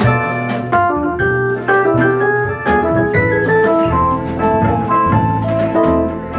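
Live swing band playing an instrumental passage with no vocals: held organ-like keyboard chords and a melody over a walking low bass, with regular cymbal strokes keeping the beat.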